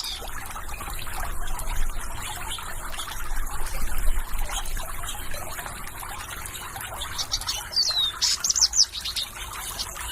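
Water trickling and babbling steadily, with small birds chirping over it: quick high-pitched chirps and a falling call, in clusters near the start and again late on.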